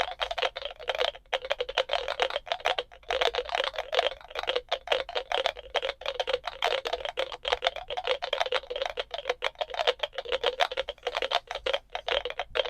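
A box of about twenty NE555-based raindrop sound circuits running together, giving a dense, irregular patter of electronic drip clicks.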